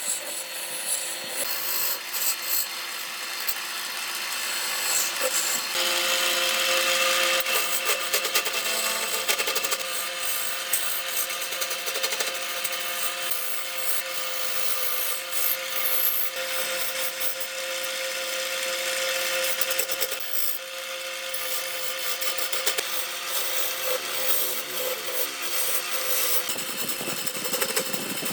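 A power tool working wood: a steady motor tone under the scraping noise of the cut.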